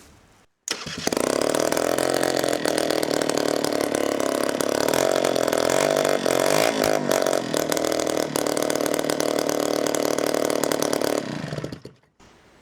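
Honda Vision NH80 scooter's 80cc two-stroke single running with no exhaust fitted, so it is really loud. The engine note comes in sharply just under a second in, runs steadily with small changes in pitch, then dies away about eleven seconds in.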